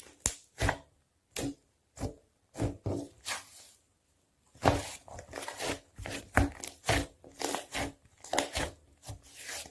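Strawberry-yogurt slime being squeezed, pressed and stretched by hand, giving a run of irregular sticky squishes and crackles, with a short pause a little before halfway.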